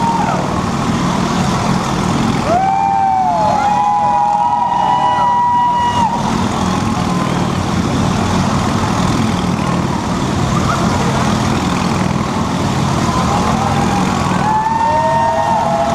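Motorcycle engine running hard as the bike laps the wall of a Wall of Death drum, its steady note overlaid with whining tones that rise and fall a few seconds in and again near the end.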